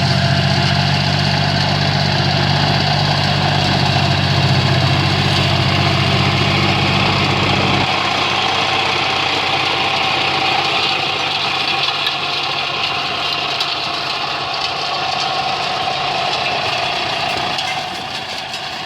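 An engine running steadily. A deep, even hum cuts off abruptly about eight seconds in, while a higher-pitched engine note carries on.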